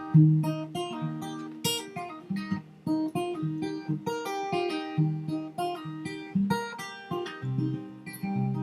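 Acoustic guitar played solo, picked and strummed in an instrumental passage, with frequent plucked notes and chords ringing over one another.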